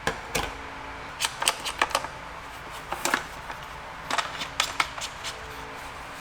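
Small accessories and their packaging being handled during an unboxing: irregular sharp clicks and rustles, some in quick clusters, over a faint steady room hum.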